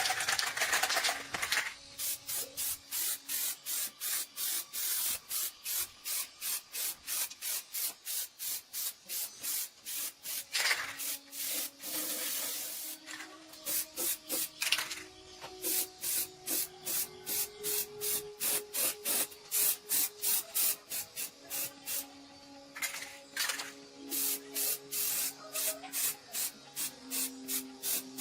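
Rhythmic back-and-forth abrasive rubbing by hand, about three strokes a second, with a few longer unbroken strokes along the way.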